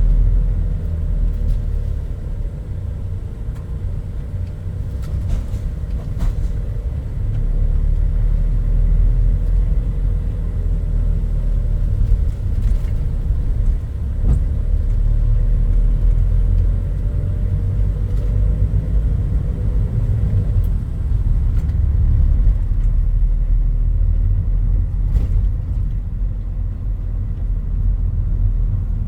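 Toyota Hilux Mighty-X pickup truck driving: a steady low rumble of engine and road, with a faint whine that drifts up and down in pitch and a few light clicks.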